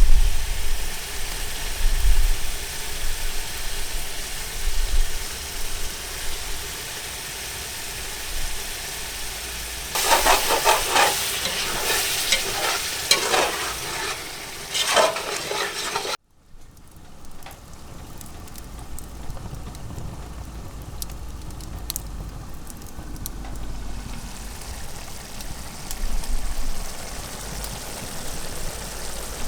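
Chicken karahi sizzling in a karahi over a log fire. About a third of the way in there is a spell of stirring, the spoon scraping against the pan. After a sudden break just past halfway, quieter sizzling follows, with occasional sharp ticks.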